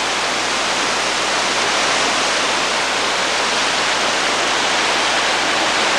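Flash-flood water rushing steadily down a wadi channel, a loud, even roar of water.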